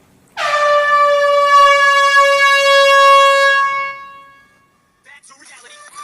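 A single loud horn blast: one long steady high note that starts abruptly and fades out after about three and a half seconds. Music begins near the end.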